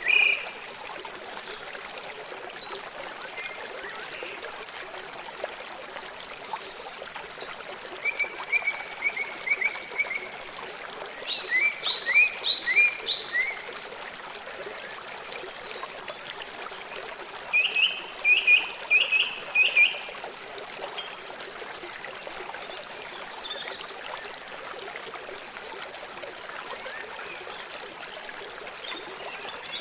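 Steady rushing of a forest stream, with an animal calling three times in short series of rapid, evenly repeated chirps.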